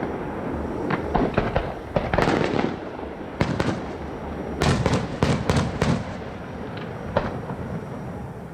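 Aerial fireworks bursting in quick succession: shells go off in clusters with a lingering rumble between them, the densest run of bangs coming in the middle, then a few single bursts near the end.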